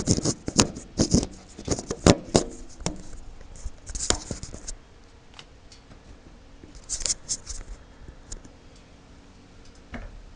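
Handling noise: a quick run of sharp clicks and knocks over the first few seconds, then short scraping hisses about four and seven seconds in.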